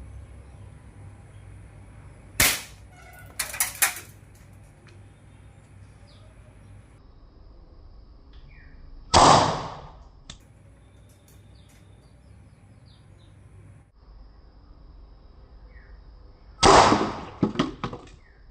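Air rifle firing .22 slugs: three sharp shots about seven seconds apart, each followed by a few quick clicks.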